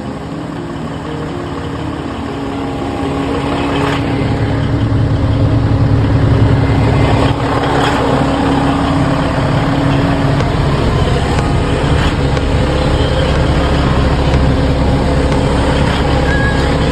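A motor running steadily with a low hum, growing louder over the first several seconds and then holding level.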